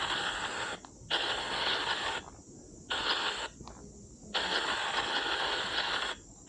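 Spirit-box app on a phone sweeping through radio static: four bursts of hiss, each up to about two seconds long, that start and stop abruptly with short quiet gaps between them.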